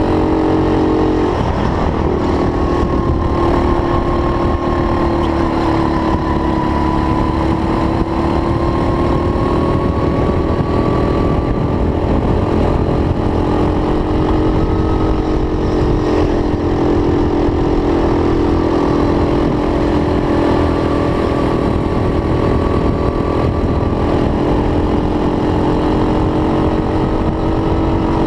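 A racing kart's small engine running hard and continuously, its pitch dropping about a second in, then rising and falling gently as it is driven on and off the throttle, over a low rumble.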